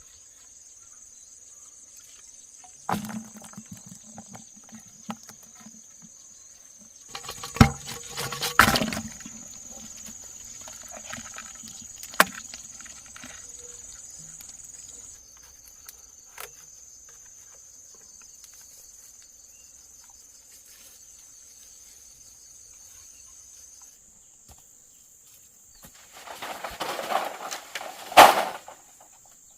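Insects trilling steadily in a high, continuous drone, with a few sharp knocks and bursts of rustling from handwork, the loudest near the end.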